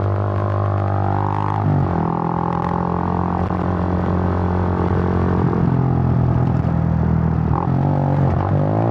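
Suzuki GN125's single-cylinder four-stroke engine running while riding, a steady drone that drops sharply in pitch about two seconds in, holds level, then climbs again near the end.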